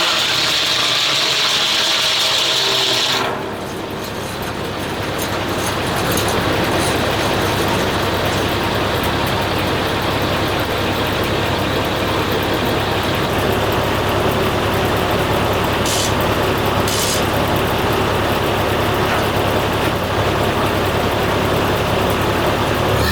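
Engine-driven wood-cutting machinery. A high cutting whine lasts about three seconds and cuts off suddenly, then the machinery runs steadily with a mechanical rattle. Near the end the engine speeds up.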